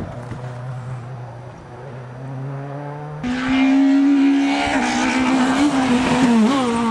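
Rally car engines. A steady engine note runs for about three seconds. It then gives way, with a sudden jump in level, to a rally car's engine running at high revs close by as the car drives through a tarmac bend, with a brief dip in pitch near the end.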